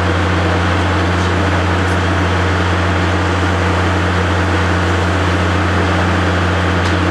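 Steady low machine hum with an even rush of noise over it, unchanging throughout.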